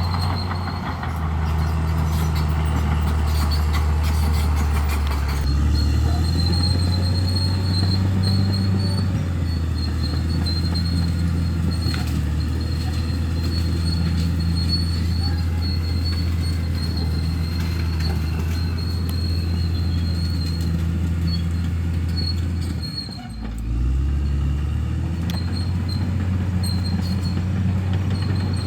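Bulldozer's diesel engine running steadily under load, with a thin, steady high whine above it. About four-fifths of the way through, the engine note drops briefly, then picks back up.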